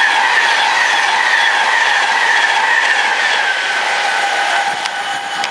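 Virgin Pendolino Class 390 electric express passing through the station at speed: a steady rush of wheel and air noise with a whine that slowly drops in pitch, easing off near the end as the train draws away.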